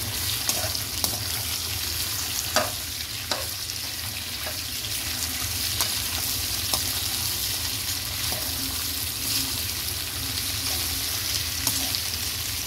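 Thinly sliced potatoes frying in hot ghee with cumin seeds, a steady sizzle, while a metal spoon stirs them, knocking and scraping against the metal pan now and then.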